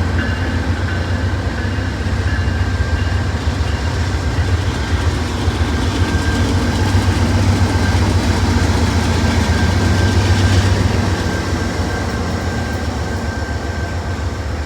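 A diesel freight train rolling past, its locomotive engines giving a heavy steady rumble with a thin high tone over the rolling noise. It grows louder to about ten seconds in, then begins to ease off.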